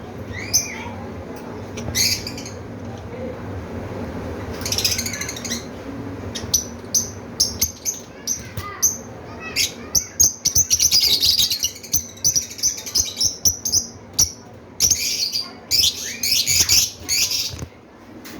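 Pet lovebirds chirping and squawking in rapid, high-pitched bursts, densest in a run of chatter just past the middle and again near the end.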